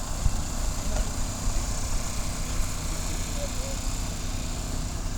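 Motor vehicle engine idling steadily, a low even rumble.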